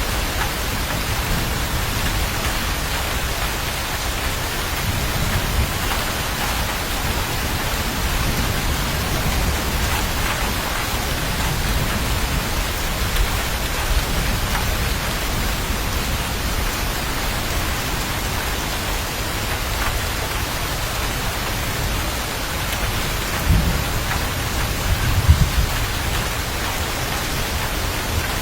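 Steady heavy rain hissing down, with a low rumble beneath it and two brief louder rolls of thunder near the end.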